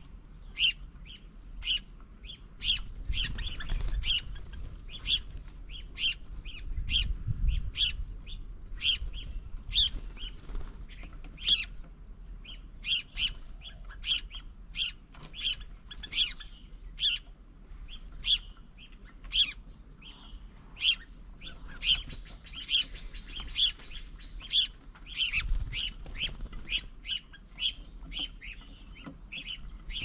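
Small birds chirping steadily: short, sharp, high chirps, one or two a second, with a few soft low rumbles in between.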